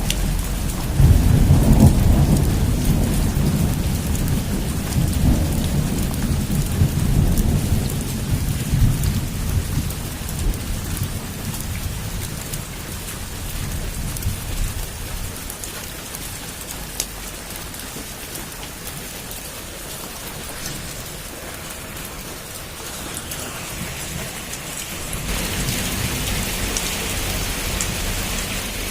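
Heavy rain falling steadily, with a long roll of thunder that rumbles up about a second in and dies away over the next several seconds. Near the end the rain swells and sounds hissier.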